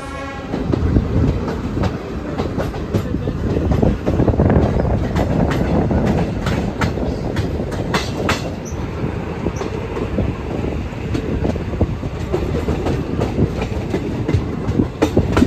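Passenger train running, heard from an open coach door: a steady wheel-and-rail rumble with irregular clacks as the wheels cross rail joints and points.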